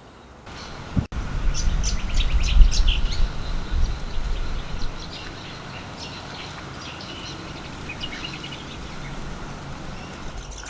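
Birds chirping repeatedly over a loud, low engine rumble from passing traffic that starts about a second in and fades away after about five seconds.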